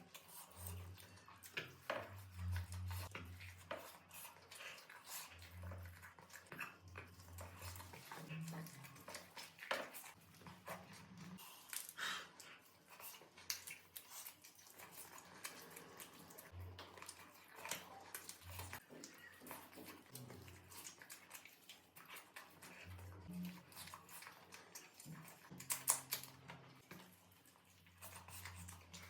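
Eating sounds from a meal of chicken curry and rice: wet chewing and smacking, with many short sharp clicks scattered throughout.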